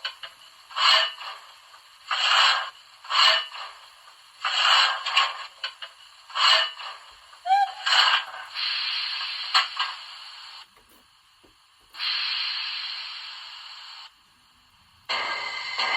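Digital steam-locomotive sound effects from a Märklin 39030 model of a BR 18.5 steam engine, played through the model's small loudspeaker. First comes a run of steam exhaust chuffs about a second apart, then two steady steam hisses of about two seconds each with a short pause between, and another hissing sound begins near the end.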